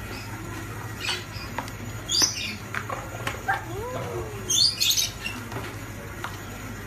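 A bird chirping in short high bursts, with one lower rising-and-falling call and a few clicks, over a steady low hum.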